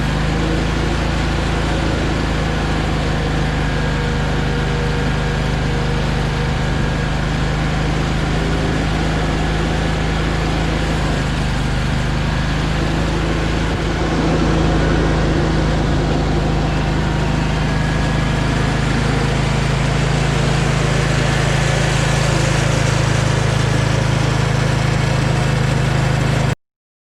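An engine running steadily under load, a little louder from about halfway through, cutting off abruptly near the end.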